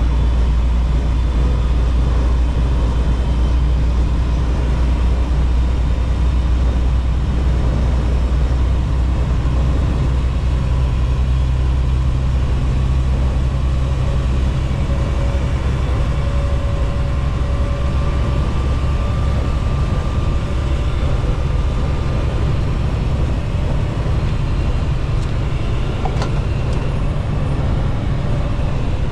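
Steady low drone of a semi truck heard from inside its cab while driving: engine and road noise, with faint whining tones drifting through the middle.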